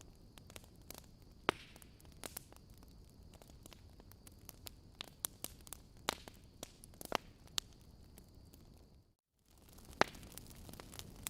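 Wood fire burning in a fireplace, crackling irregularly with sharp pops from the logs over a low hiss. The sound cuts out completely for a split second about nine seconds in.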